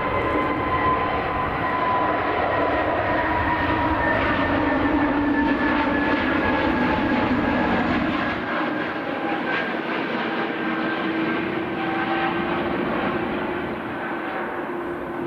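Airbus A320 airliner's jet engines at takeoff power on departure: a steady jet noise with whining tones that slowly fall in pitch, easing slightly in the second half.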